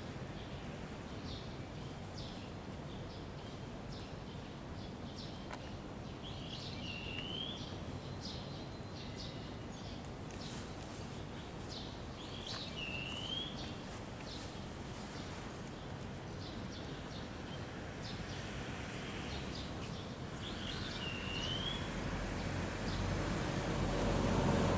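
Outdoor ambience with a bird repeating a short hooked call a few times, several seconds apart, among faint high chirps. A low hum grows louder near the end.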